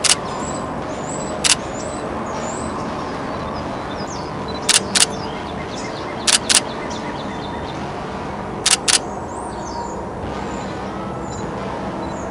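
Canon 90D DSLR shutter firing: about eight sharp clicks, mostly in quick pairs, a few seconds apart. Small birds chirp faintly behind them.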